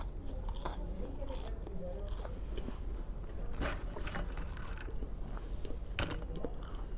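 A person chewing and crunching food close to the microphone, with sharp crunches about three and a half seconds in and again about six seconds in.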